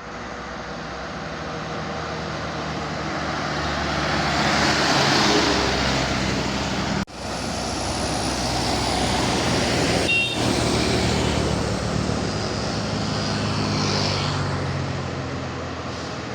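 Truck engines pulling past on a steep uphill road, swelling and fading as each vehicle goes by, with an abrupt break about seven seconds in. A short high squeal sounds about ten seconds in.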